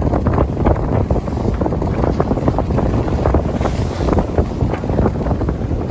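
Strong wind buffeting the microphone in uneven gusts, over the wash of waves.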